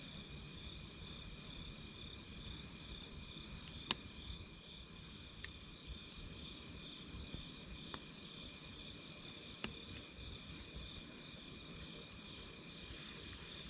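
Faint campfire crackling, with a few sharp pops scattered through it, over a steady chirring of crickets and a low rumble.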